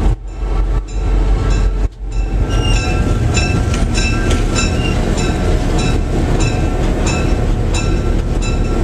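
EMD FP7 diesel locomotive running under way, heard from the cab as a heavy steady rumble, with a bell clanging about twice a second over it. The sound dips briefly twice near the start.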